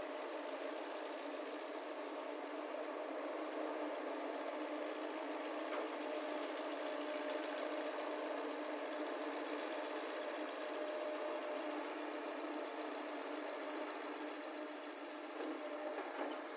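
Diesel engines of excavators loading a dump lorry running steadily, with a steady hum. A few faint knocks come about six seconds in and again near the end.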